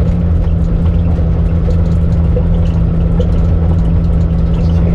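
Car engine running steadily at low speed, heard from inside the cabin: an even, low drone that holds one pitch throughout.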